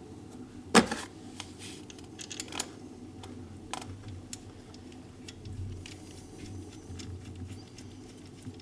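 Light, irregular metallic clicks and taps of bolts being handled and threaded by hand into the oil filter cover of a snowmobile engine, with one sharper click about a second in.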